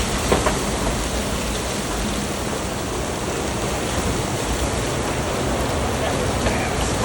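Heavy rain in a severe storm, a steady, loud rushing noise with no breaks.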